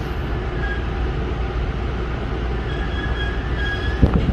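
Tobu Tojo Line commuter train rumbling at the end of an emergency stop, with a faint brake squeal toward the end and a single knock about four seconds in.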